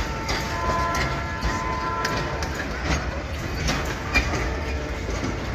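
Freight train of loaded grain hopper cars rolling past: a steady rumble with wheels clicking over the rail joints and thin metallic squeals from the wheels that come and go.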